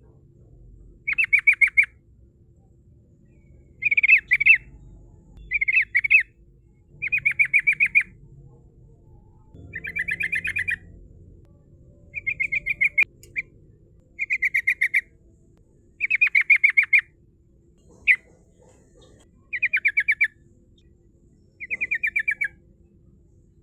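Yellow-vented bulbul (trucukan) singing its rolling 'ngerol' song: about a dozen short, fast-trilled phrases of rapid repeated notes, one every second or two.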